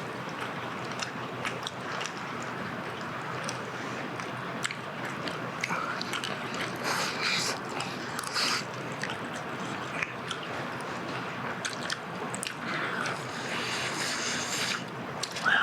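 Close-up eating sounds: a person biting and chewing charcoal-grilled chicken, with small wet clicks and smacks and a few louder bursts of chewing, over a steady background hiss.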